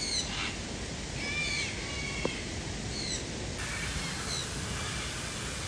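Birds calling: several short, sharp calls with a slight downward slide, spread a second or so apart, over a steady background hiss.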